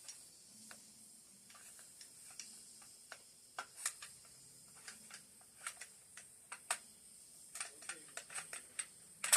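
Light, irregular metal clicks and taps of an AK-47's bolt and bolt carrier being handled and worked into place. The clicks come closer together in the last couple of seconds, with the sharpest click near the end.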